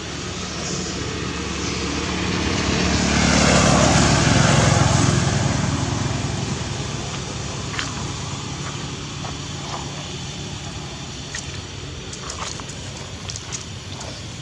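A motor vehicle passes by, its engine and tyre noise growing louder to a peak about four seconds in and then fading away, followed by a few short high chirps.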